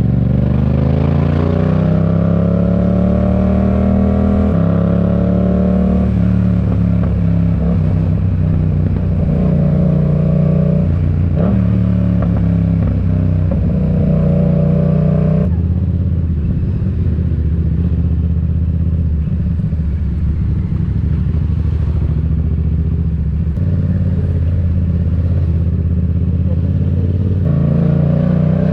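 Yamaha MT-07's parallel-twin engine through an aftermarket RoadsItalia exhaust, pulling up through the revs with the pitch rising and stepping down at gear changes. It then runs at steady revs for long stretches and climbs again near the end.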